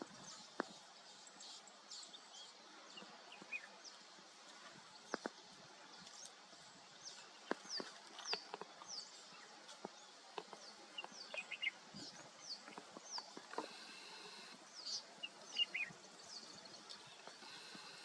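Birds calling in the bush: many short, high chirps that slide downward, repeated throughout, with scattered faint clicks and a brief buzzy tone about fourteen seconds in.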